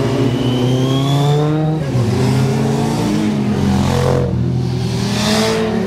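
Motorcycle engines revving hard, pitch climbing and then dropping sharply at gear changes, about two seconds in and again a little past four seconds, before climbing again. More than one engine is heard at once.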